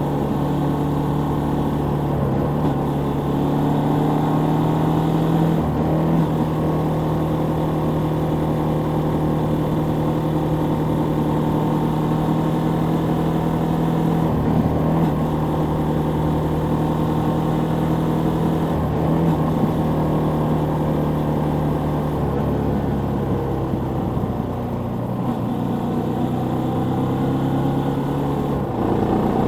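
Suzuki Volty 250 (TU250) air-cooled single-cylinder engine running steadily on the move. The note breaks and shifts in pitch briefly several times.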